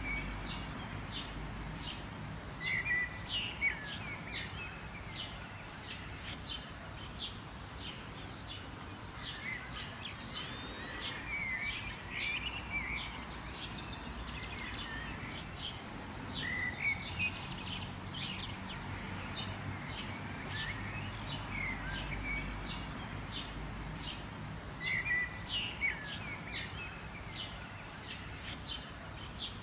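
Birds chirping and singing: a steady run of short, high chirps, with a louder warbled phrase every few seconds. A low, steady rumble sits underneath.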